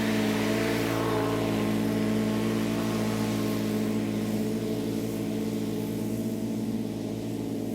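Lawn mower engine running steadily at a constant pitch while mowing.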